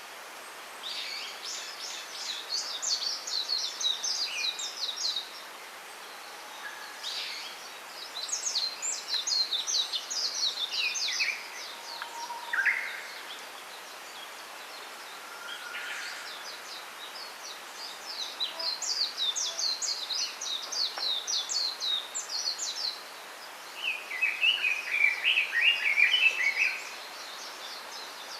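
Small songbirds singing: three long runs of rapid high twittering chirps, each a few seconds long, and near the end a lower, louder burst of chirps. A steady faint hiss of outdoor background noise lies underneath.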